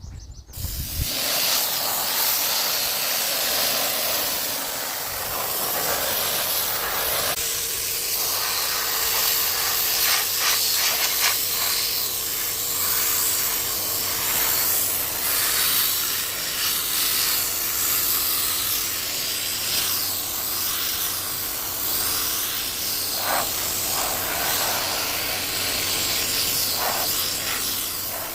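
Handheld air sandblaster blasting grit against a steel tractor rim: a steady, loud hiss of compressed air and abrasive that starts about a second in.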